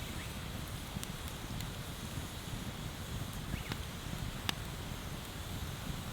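Wood bonfire crackling, with a few sharp pops about a second in, after three and a half seconds and after four and a half seconds, over a steady low rush.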